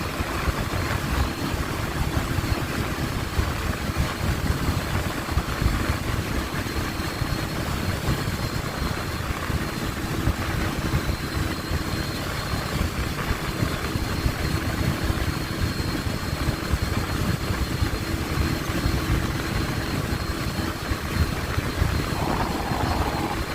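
Motorcycle riding at a steady pace, its engine under a heavy, even rush of wind noise on the onboard microphone, with no clear revving.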